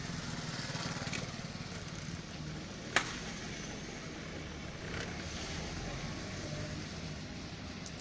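Car engine running steadily, with a single sharp click about three seconds in.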